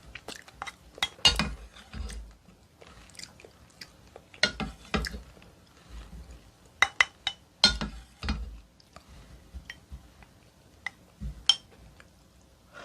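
Close-miked eating of oyster and seaweed soup: sharp spoon-on-bowl clinks and wet chewing sounds in clusters a few seconds apart, with quiet gaps between.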